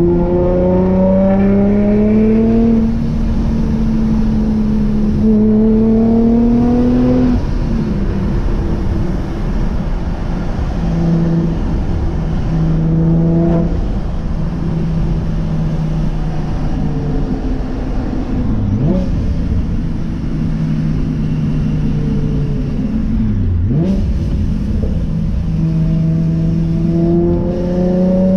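Supercharged Nissan G35's V6 engine, with aftermarket headers and exhaust, pulling hard several times with its pitch climbing, then holding a steady drone in between while cruising.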